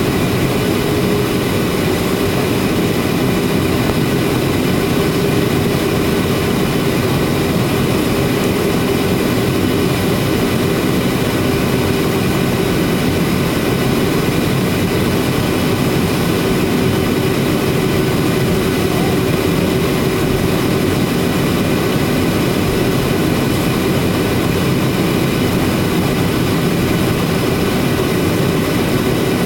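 Boeing 737-800's CFM56 jet engines running steadily: a constant rushing drone with a low hum and a few thin high whines.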